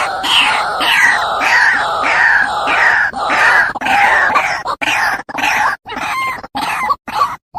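White-breasted waterhen (ruak-ruak) calling: a run of harsh, falling notes about two a second, which breaks up into short choppy fragments with brief gaps near the end.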